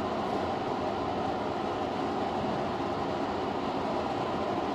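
Tobu 50000-series electric train running, heard from the driver's cab as a steady, even rumble.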